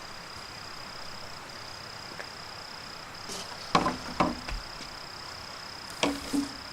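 Four sharp chopping knocks in two close pairs, the first pair about halfway through and the second near the end, over a steady high-pitched insect drone.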